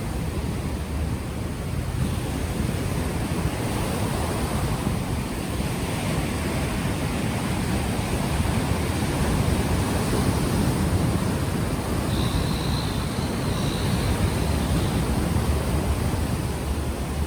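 Ocean waves washing onto the shore, with wind rumbling on the unshielded microphone. The wash swells a little louder past the middle.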